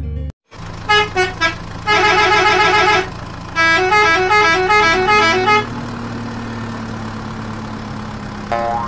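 Battery-operated toy dump truck's sound chip playing a quick string of electronic horn beeps and a short stepping tune over the steady whirr of its electric motor. The beeps stop about halfway through, the motor hum carries on, and one short beep comes near the end.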